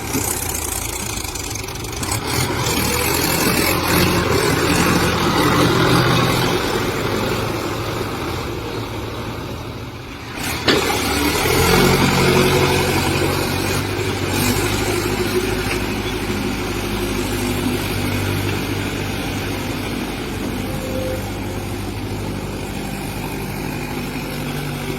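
Tractor diesel engines running hard under heavy load while pulling against each other in a tug-of-war. There is a brief dip and a sharp knock about ten seconds in, after which a deeper engine note settles steadily.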